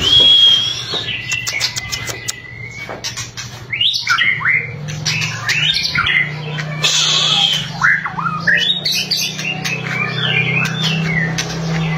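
White-rumped shama (murai batu) singing: a held high whistle at the start, then quick sliding whistled phrases mixed with rapid harsh clicking rattles, the 'kretekan' call. A steady low hum runs beneath from about four seconds in.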